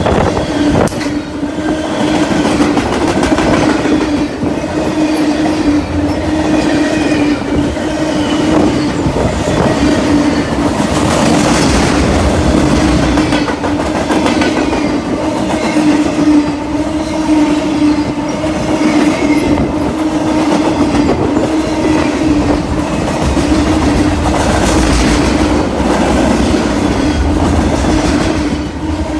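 Freight train cars rolling past steadily, wheels clattering over the rail joints, over a constant rumble with a strong steady hum and faint high wheel squeal.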